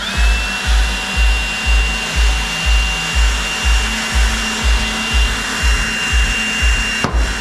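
A power tool's motor runs for about seven seconds with a steady high whine, spinning up at the start and winding down near the end, over background music with a heavy bass beat about twice a second.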